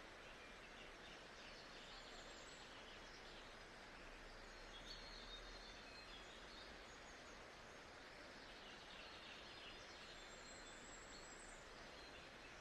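Faint nature-sounds ambience: a steady soft hiss with faint bird calls now and then.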